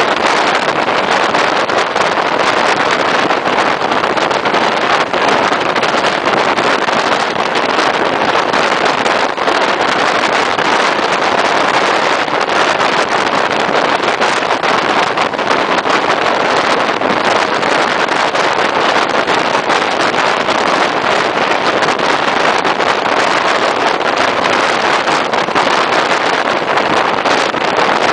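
Steady loud rush of wind over the microphone mixed with the running noise of a moving regional passenger train, heard at an open carriage window.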